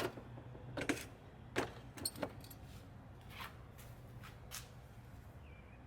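Light metallic clinks and knocks, about half a dozen at irregular intervals, as small carburetor parts are handled and set into a parts basket for soaking in carburetor dip.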